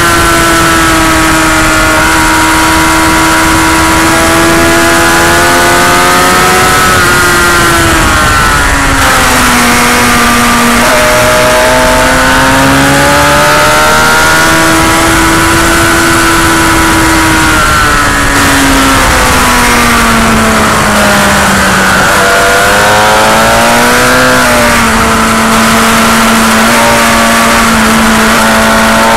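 Motorcycle engine running hard on a racetrack, its pitch falling and rising over several seconds as the revs drop into corners and build again on the exits. Heavy wind noise runs under it throughout.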